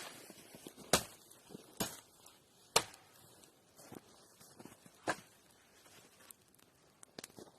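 A series of sharp knocks, about five, irregularly spaced and growing sparser, with faint shuffling between them.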